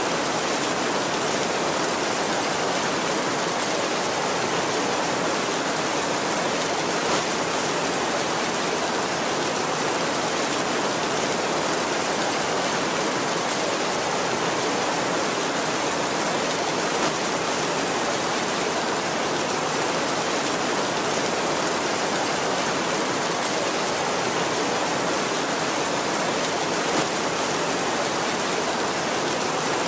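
Heavy rain falling steadily on a tin roof, an even, unbroken hiss of drops with a few slightly louder hits standing out.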